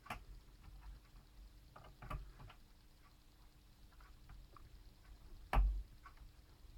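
Scattered light clicks and taps from the plastic case of an HP 630 laptop being handled and its latches worked, with one louder knock about five and a half seconds in.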